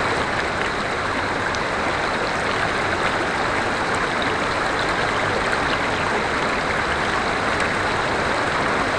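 River water flowing over rocks in a steady rush, with small splashes and trickles.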